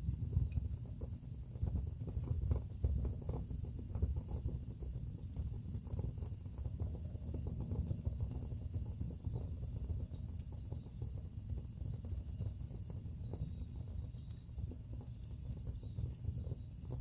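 Wood fire in a fireplace crackling, with frequent irregular small pops and snaps over a low steady rumble of the flames.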